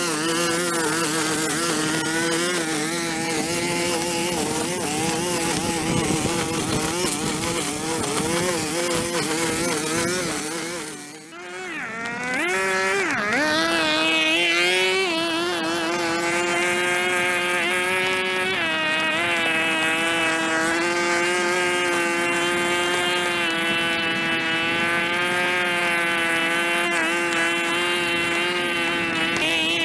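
Small two-stroke engine of a handheld outdoor power tool running at high speed. About eleven seconds in, the throttle is let off briefly and the engine dips, then it revs back up and holds a steady high whine.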